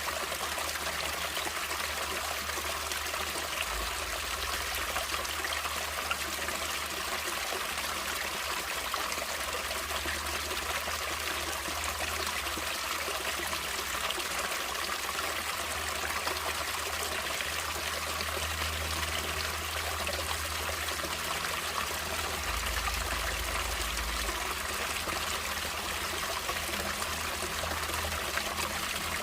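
Running water of a stream, a steady unbroken rush with trickling.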